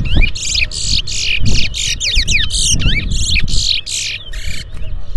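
A towa towa seed finch singing a fast song: quick whistled glides and a rapid series of harsh, buzzy notes, about three a second, that stop a little before the end.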